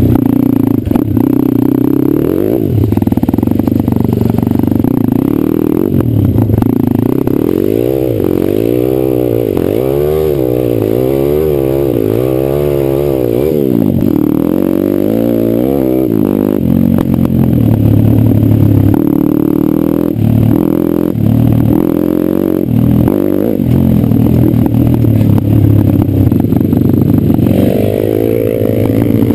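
Off-road pit bike engine being ridden hard, its pitch rising and falling again and again as the throttle is opened and closed, with some clatter from the bike over rough ground.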